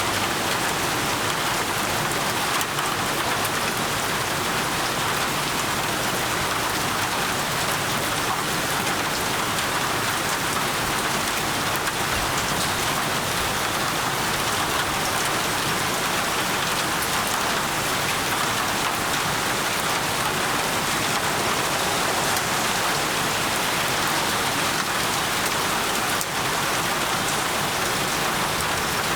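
Steady rain falling on surfaces, an even hiss that doesn't let up.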